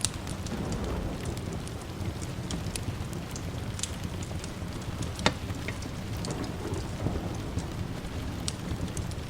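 Steady rain with the low rumble of distant thunder, and scattered sharp crackling clicks throughout, the loudest about five seconds in.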